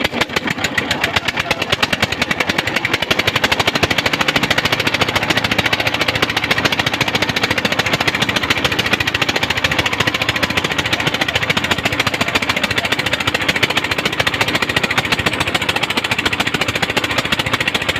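Engine running steadily with a rapid, even chugging beat.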